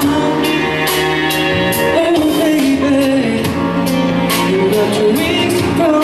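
Pop song performed live: a singer's voice over amplified backing music, with a steady beat about twice a second.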